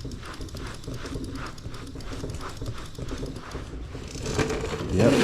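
Brush scrubbing a whitewall tyre: rhythmic rasping strokes, about two a second.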